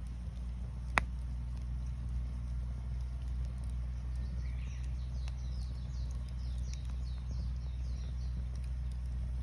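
Campfire crackling, with one sharp pop about a second in and a few fainter ticks over a steady low rumble. Small birds call faintly in the background, with a run of quick high chirps in the middle.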